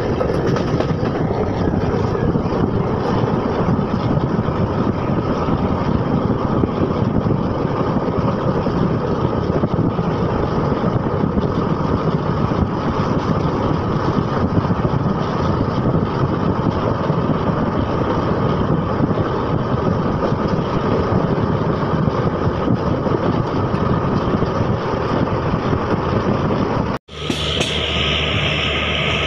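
Steady running noise of a moving passenger train heard through an open window: wheels on rail mixed with rushing air. About 27 seconds in it cuts off for an instant and comes back as a different steady run with a brighter hiss.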